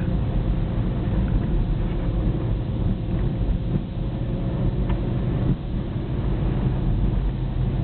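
Car engine and road noise heard from inside the cabin: a steady low drone while driving.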